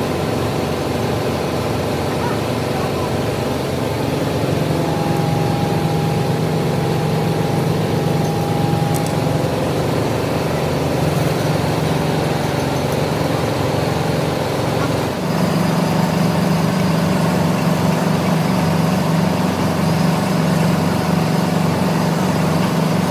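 Workshop machinery running with a steady motor drone, which shifts suddenly to a stronger hum about fifteen seconds in.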